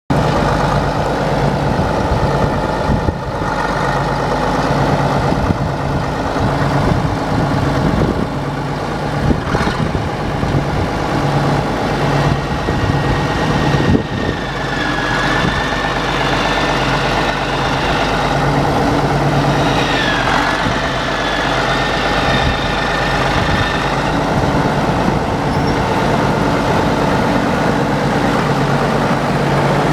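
Case 1070 Agri King tractor's six-cylinder diesel engine running steadily, with a thin high whine through the middle stretch.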